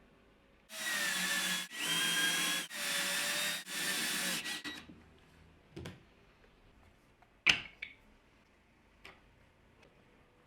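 Handheld power drill run in four short bursts of about a second each, with brief gaps between, as when it is triggered in stages. It is followed by a few light clicks and one sharp knock.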